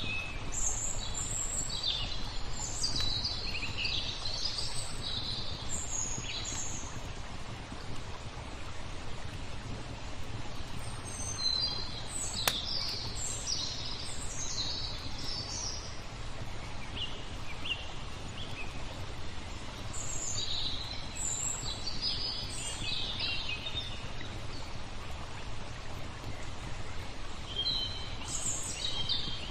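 Songbirds chirping in several bursts of quick, high twittering over a steady low rush of water. One sharp click sounds about twelve seconds in.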